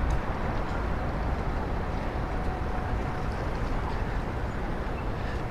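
Steady rumbling noise of wind on the microphone while riding a bicycle, with city street noise underneath.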